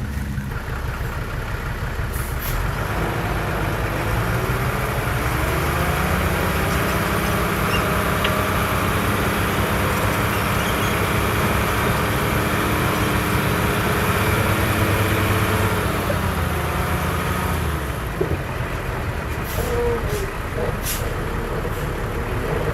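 Heavy construction machine's diesel engine working. It climbs in pitch over the first few seconds, holds steady under load, and drops back towards idle near the end, with a few sharp knocks after that.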